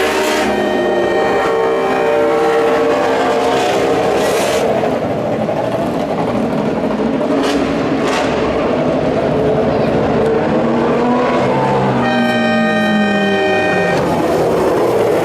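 Racing motorcycle engines at high revs, several bikes overlapping, their pitch rising and falling as they pass and shift gear, with one steady high note about twelve seconds in.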